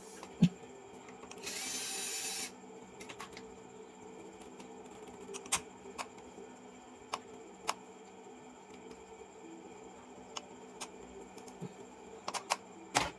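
Light clicks and taps from hand work on keyboard button parts, with a short hiss lasting about a second near the start.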